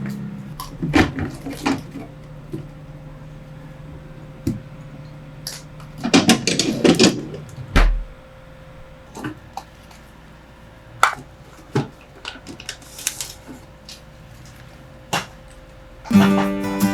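Scattered clicks and knocks of household items being handled, with a burst of clattering about six seconds in. Acoustic guitar music starts near the end.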